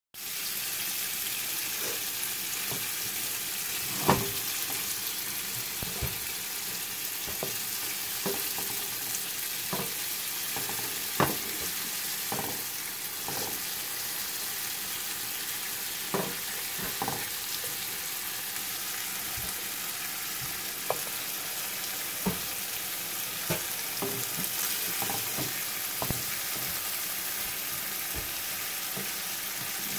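Burger patties sizzling in an aluminum nonstick frying pan, a steady hiss, with scattered taps and scrapes of a plastic spatula against the pan as the patties are turned; the loudest knocks come about 4 and 11 seconds in.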